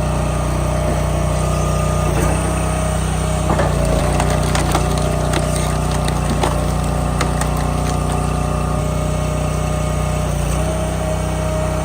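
An engine-driven firewood splitter, the Alpha 6, running steadily under load with a steady whine, while red oak is split; scattered sharp cracks and knocks come from the wood breaking apart.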